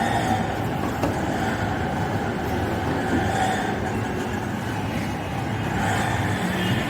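Samsung front-load washing machine running with a steady mechanical rumble from its direct-drive motor, which the technician says is faulty, its magnet badly damaged.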